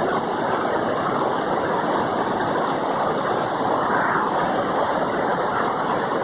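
Steady rush of running water, as from a stream flowing over rocks.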